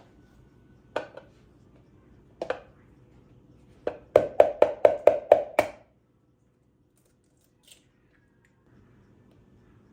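Knife chopping on a cutting board: a few single chops, then a quick run of about seven chops, after which it stops.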